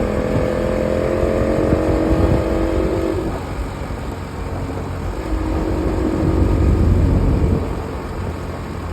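Bajaj Pulsar NS200's single-cylinder engine running while the motorcycle descends, slowed on the engine with the clutch out. Its note sinks slightly over the first three seconds, fades, then comes back louder from about five seconds in before easing off again, over a steady low rumble.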